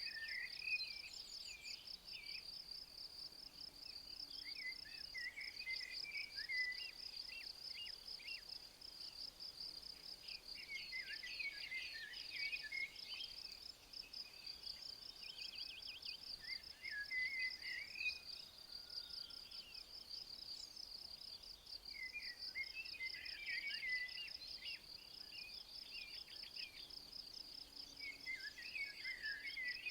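Insects trilling steadily in a fast, even pulse, with a bird singing short chirpy phrases about every five or six seconds.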